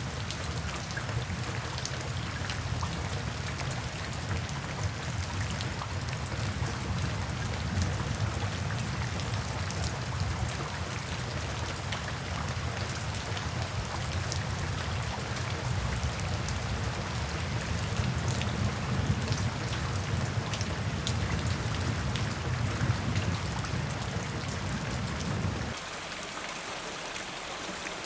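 Steady rain falling, with many individual drops pattering on a surface over a low rumble. About twenty-six seconds in the low rumble cuts out suddenly and the rain goes on a little quieter.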